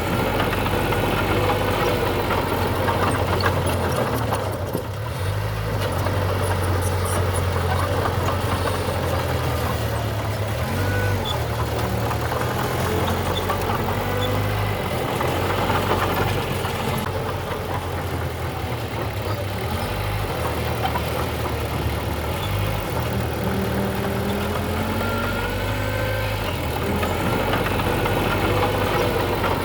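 Diesel engine of heavy earthmoving machinery running. Its pitch steps up and down repeatedly as the engine speed and load change.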